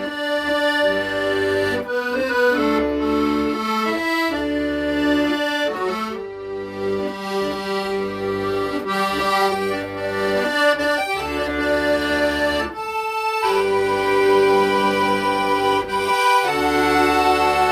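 Accordion playing a melody in held notes over left-hand bass and chord accompaniment, with a brief break about thirteen seconds in.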